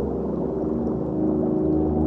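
Ambient drone music of layered, sustained low tones, an underwater-style soundscape with no rain or splashing noise.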